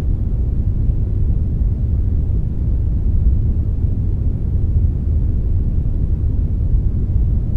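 Steady synthetic brownish noise, a blend of brown and white noise: an even, unchanging deep hiss with most of its weight in the bass.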